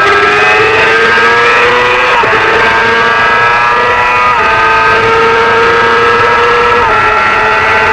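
Small-displacement Supersport 300 racing motorcycle engine at high revs under full throttle, its pitch climbing slowly. Three quick upshifts break it about two, four and seven seconds in.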